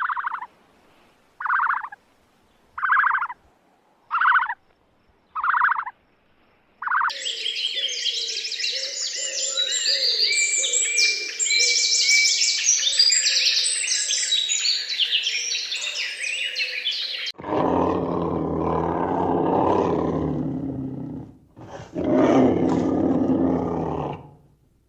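A series of three animal sounds. First come six short calls at an even pace, about one every second and a half. Then many birds chirp densely for about ten seconds. Near the end there are two long, low, rough roars.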